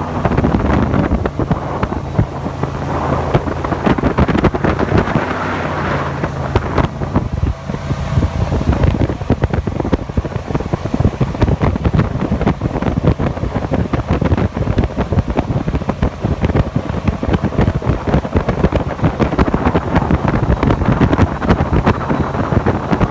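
Jet boat under way: its engine running steadily beneath heavy wind buffeting on the microphone.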